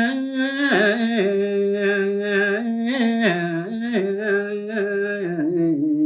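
Solo male voice singing a line of Balinese tembang in pupuh Sinom, unaccompanied, in a slow ornamented melody with many small pitch turns. It settles onto a long held note near the end.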